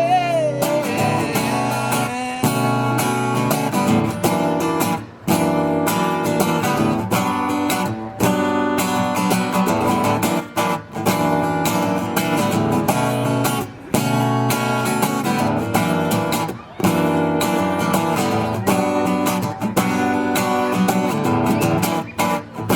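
Acoustic guitar strummed in steady rhythmic chords, an instrumental passage of a song, with brief breaks in the strumming every few seconds.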